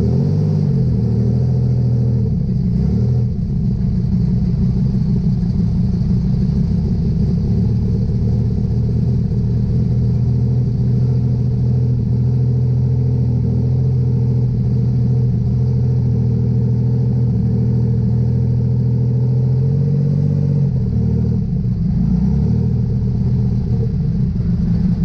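Super Stock pulling tractor's diesel engine at full throttle during a pull, a loud steady drone. Its pitch sags briefly about twenty seconds in and then climbs back.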